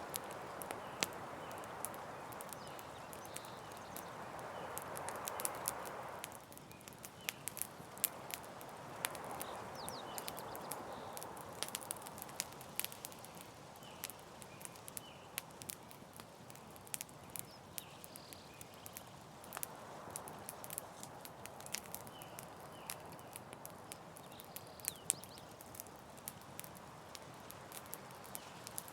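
Campfire crackling: irregular sharp pops and snaps over a soft rushing background that swells and fades every few seconds, with faint high chirps repeating in the background.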